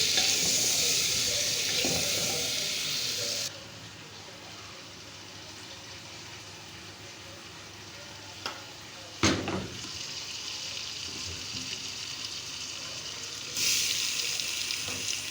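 Food sizzling as it fries in hot oil in a cooking pot. The sizzle is loud for the first few seconds, quieter through the middle, and loud again near the end, with a sharp metal clank about nine seconds in.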